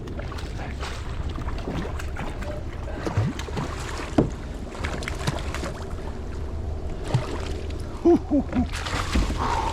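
Wind buffeting the microphone with a steady low rumble, and water and gear noises on a fishing kayak: scattered light clicks and knocks, one sharper knock about four seconds in. A few short squeaks come just after eight seconds.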